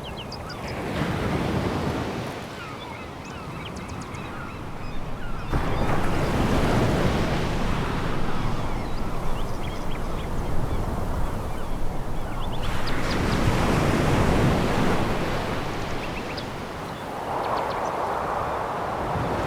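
Sea waves breaking and washing over a pebble beach, about four swells in turn, with the pebbles clicking and rattling as the water drags back.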